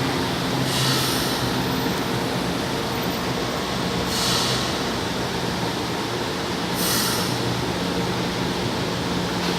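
São Paulo Metro Line 1 train running through the station, a steady rumble and hum, with three short hissing sounds about a second in, about four seconds in and about seven seconds in.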